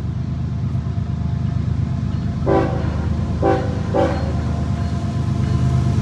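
Train with a steady low diesel rumble sounding its horn in three short blasts, the last two close together.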